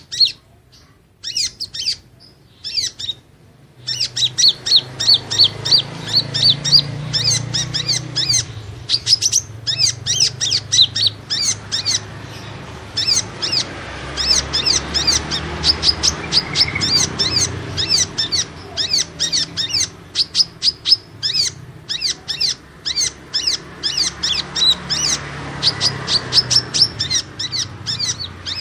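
Kolibri ninja sunbird song used as a lure call: rapid runs of short, high, thin chirps, several a second, in bursts broken by brief pauses, over a low background hum.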